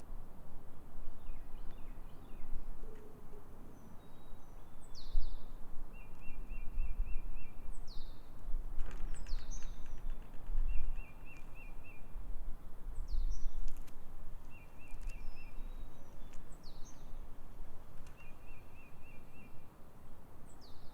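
Wild birds calling: a short trill of quick, even notes repeated every few seconds, and scattered sharp high notes that fall in pitch. Under the birds runs an irregular low rumbling noise.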